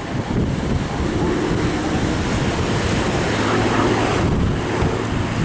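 Hawker Fury's Bristol Centaurus radial engine droning as the aircraft flies its display, heavily buffeted by wind on the microphone.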